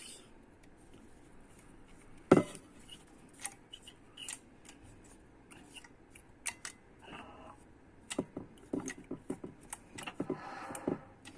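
Small metallic clicks and taps of trumpet valve parts being handled, as a valve piston is turned in its casing to bring it back to the correct position so air can pass. One louder knock comes about two seconds in, and a run of quicker clicks comes later.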